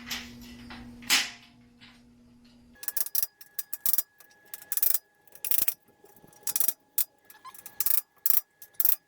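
Steel shelf beam being hammered into the slots of its uprights to lock it in: a series of sharp, irregular knocks, starting about three seconds in and coming one to three a second.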